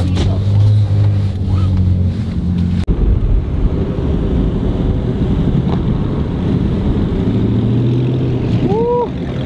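Steady low engine hum inside a car's cabin. About three seconds in it cuts to the rumble of Dodge Charger engines idling and creeping forward in a line. Near the end there is a short whoop that rises and falls.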